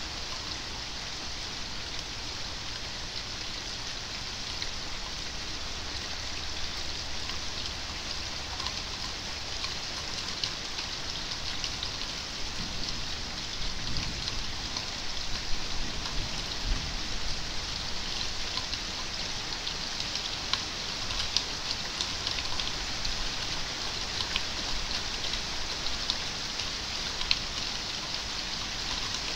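Steady rain falling, with individual drops ticking on a nearby surface; the ticks grow more frequent about halfway through.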